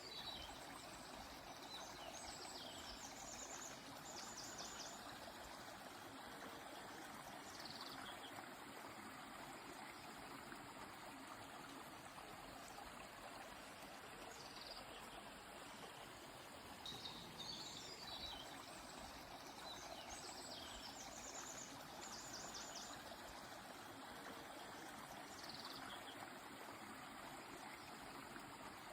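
A river flowing steadily, with a bird singing short, high chirping phrases near the start and again about two-thirds of the way through.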